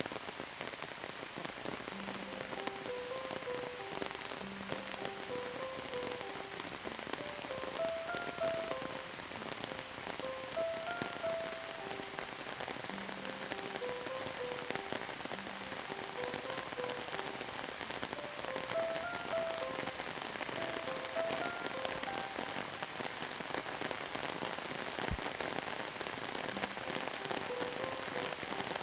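Steady rain falling and pattering on surfaces, with a soft, slow melody of short notes mixed in beneath it.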